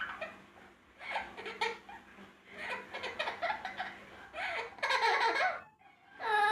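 Amazon parrot mimicking human laughter: a run of broken, laugh-like calls, loudest about two-thirds of the way in and again near the end.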